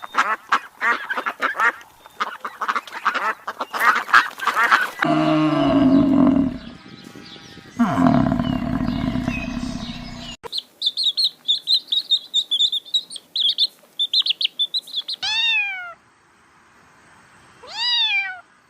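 A string of different animal calls edited one after another: rapid repeated calls, then loud low-pitched calls, then a run of high chirps, then two single pitched calls that fall away, a few seconds apart.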